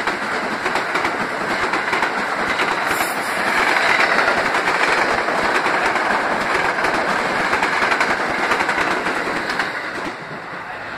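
Metro-North electric commuter train moving along the platform, a steady rumble of cars and wheels on the rails that is loudest around four seconds in and eases off near the end.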